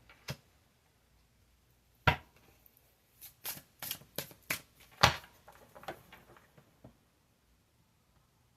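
Tarot cards being handled: a sharp snap about two seconds in, then a run of quick irregular taps and flicks, the loudest about five seconds in.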